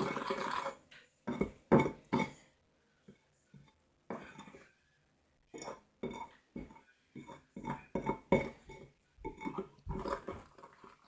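Irregular clinks and scrapes of a utensil against a bowl as slime is stirred by hand, in short bursts with pauses between.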